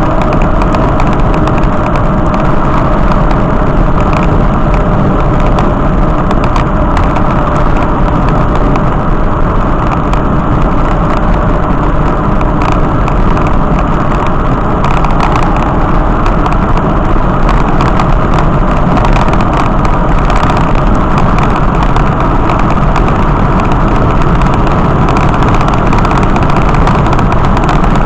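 Steady, loud road and engine noise of a vehicle on the move, unchanging throughout.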